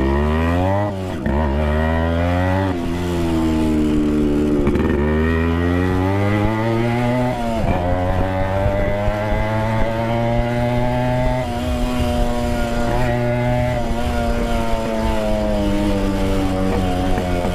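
Yamaha RX100's two-stroke single-cylinder engine, its silencer baffle removed, pulling away and accelerating through the gears. The revs climb and drop back at each shift, about four times in the first eight seconds, then the bike cruises at fairly steady revs with small rises and dips.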